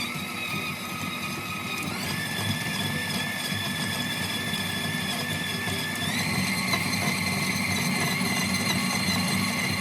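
Electric mixer running as it shreds cooked chicken, a steady motor whine that steps up in pitch twice as the speed is raised, about two seconds in and again about six seconds in.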